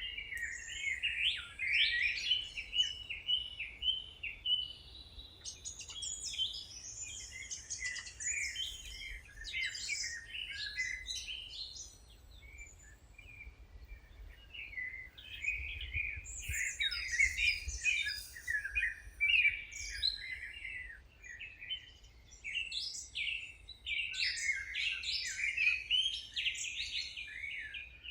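Several songbirds chirping and trilling at once, short overlapping calls in a dense chorus that thins out briefly near the middle, over a faint low rumble.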